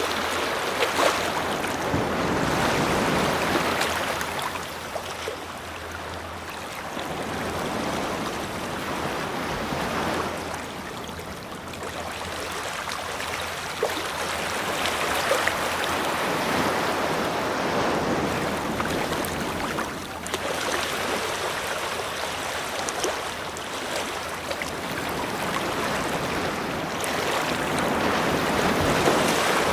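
Ocean waves washing onto a beach, the surf swelling and fading every several seconds.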